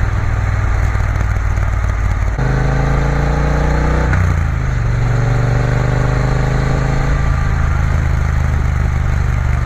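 Triumph Bonneville T120's parallel-twin engine running under way, its note changing about two and a half seconds in and again about four seconds in, with the pitch slowly sagging in between.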